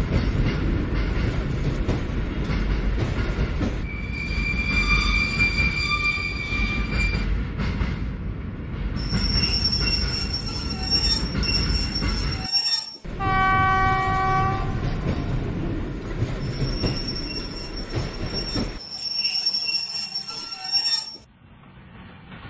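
Train running with a steady rumble and high, steady squealing whines from the wheels. About thirteen seconds in, a pitched horn blast sounds for about two seconds after a sudden break in the sound.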